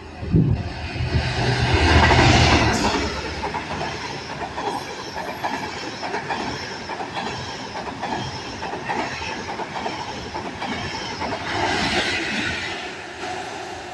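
A train passing, loudest about two seconds in, its wheels clattering over the rail joints as the carriages go by.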